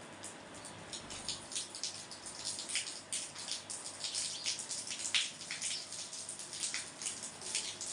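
Artificial rain: sprinkled water falling in an irregular patter of drops and small splashes over a steady hiss.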